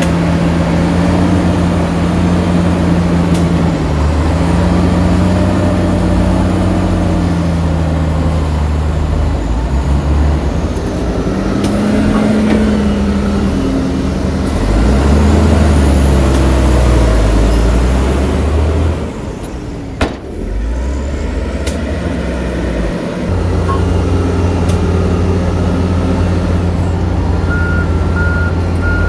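Heavy diesel engines of construction machinery loading sand, running loud and revving up and down several times. The sound drops briefly with a sharp click about two-thirds of the way in, and a reversing alarm begins beeping near the end.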